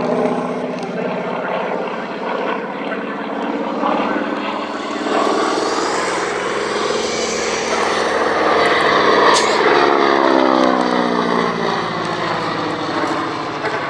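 Aircraft flying past, its engine getting louder to a peak about nine seconds in, then dropping in pitch as it moves away.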